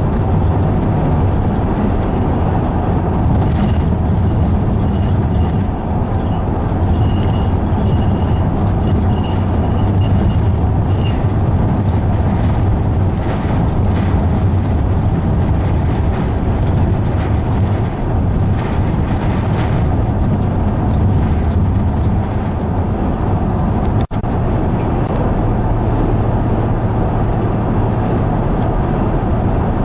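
Steady road and engine noise of a moving vehicle, heard from inside the cab, with a low drone running throughout.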